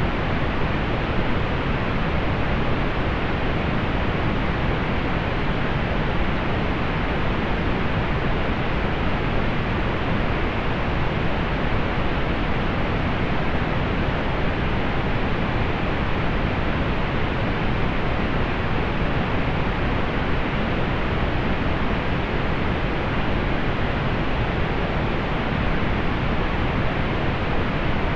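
Steady, unchanging pink noise: an even hiss weighted toward the low end, with its top end rolled off.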